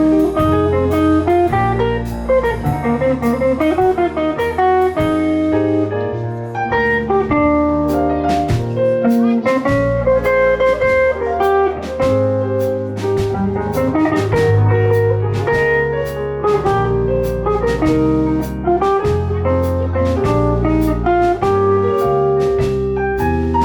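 Live instrumental jazz-blues band playing, with guitar over bass and drum kit keeping a steady beat.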